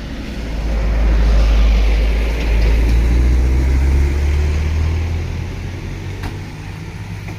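A large vehicle's engine running loudly close by, swelling in the first second, stepping up in pitch about halfway through, then fading away, like a heavy vehicle labouring past on the climb.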